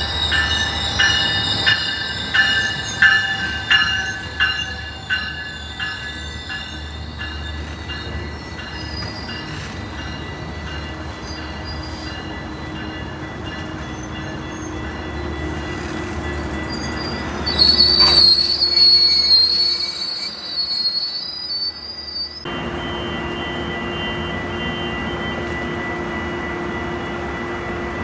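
A train rolling past, with a regular clatter of wheels over the rails at first, then a high, wavering wheel squeal for a few seconds about two-thirds of the way through. The sound then cuts abruptly to a steady hum.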